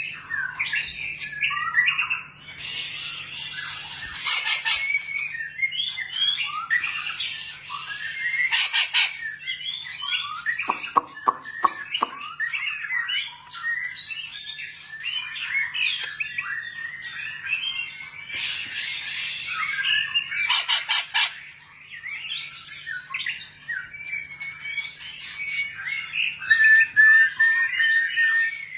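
White-rumped shama singing a long, varied song: whistled phrases and glides mixed with harsh, rasping squawks and a run of rapid clicks about eleven seconds in. A faint steady low hum runs underneath.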